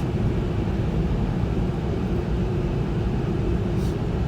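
Steady low roar heard inside a car's cabin, with a faint steady hum underneath.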